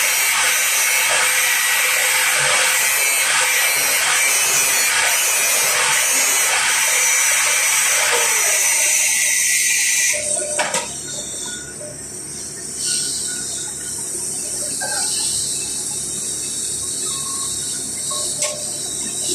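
Electric arc welding: a loud, steady crackling hiss of the arc that cuts off suddenly about ten seconds in, leaving quieter steady background noise with a few small clicks.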